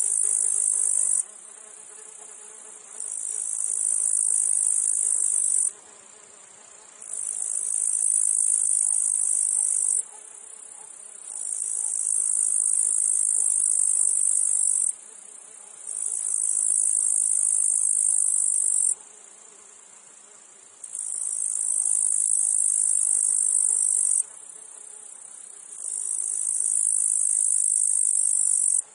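Meadow insects: cicadas give a high, hissing buzz in repeated phrases of three to four seconds, with short pauses between them, over a faint low buzz of flies.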